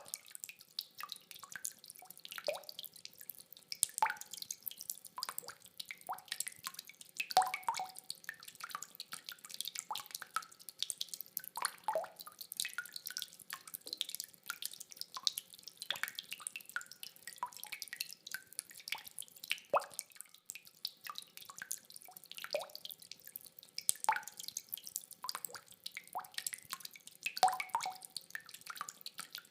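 Rainwater dripping: irregular drops falling several times a second, each a short sharp plink, some ringing with a brief pitch, over a faint hiss of rain. No thunder.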